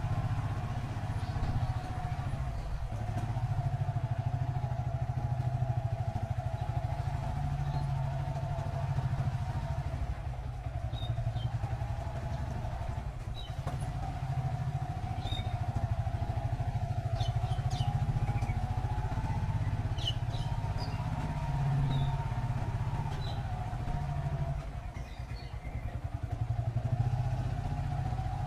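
Motorcycle engine running steadily as the bike is ridden, a low rumble with a steady higher whine above it, easing off briefly near the end.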